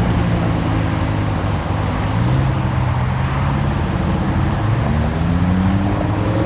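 Car engine under acceleration, its pitch climbing slowly over several seconds.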